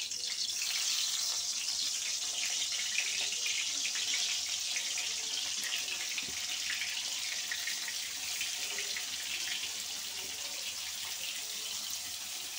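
Salt-and-turmeric-coated pointed gourd (potol) pieces sizzling as they deep-fry in hot soybean oil in a kadai, with more pieces laid in as it goes. A steady hiss that jumps up at the start and eases slightly toward the end.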